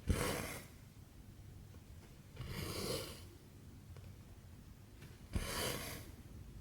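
Cotton embroidery floss pulled through cross-stitch fabric three times, at a steady pace of about one stitch every two and a half to three seconds. Each stitch is a short rasping swish of thread, and some open with a sharp tick as the needle pierces the cloth.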